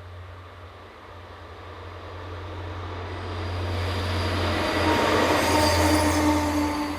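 Diesel-hauled freight train approaching, growing steadily louder to a peak about five to six seconds in, with a steady tone from the locomotives and wheels rising over the rush of the train.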